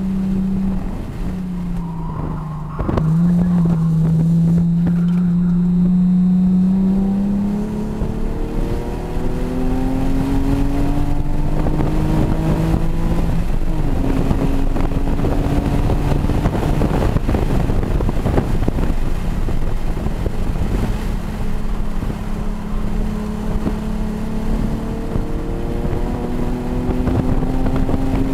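A 2013 Nissan 370Z Nismo's V6 engine heard from inside the cabin under hard acceleration on track. Its pitch climbs, drops at an upshift about halfway through, then climbs again and holds at high speed.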